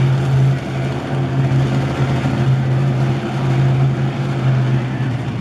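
Monster truck engine idling with a loud, steady low drone, its pitch dipping slightly near the end.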